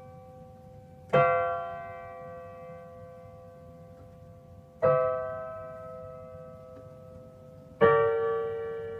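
Slow solo piano music: three sustained chords, struck about a second in, about five seconds in and near the end, each left to ring and slowly fade.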